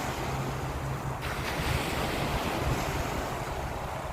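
Waves washing on a beach, with wind rumbling on the microphone.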